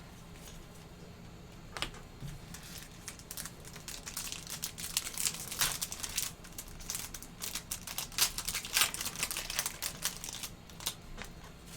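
Trading card pack wrapper being torn open and crinkled by hand: irregular crackles that start about two seconds in and are busiest in the middle.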